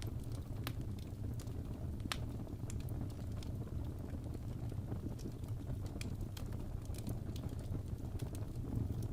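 Wood fire burning in a fireplace: a steady low rumble with irregular sharp crackles and pops, a few each second.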